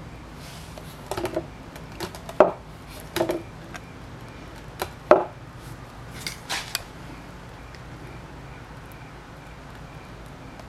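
Metal tools clinking and clanking against metal: a dozen or so sharp knocks, some alone and some in quick clusters, over about six seconds, then only a low steady background.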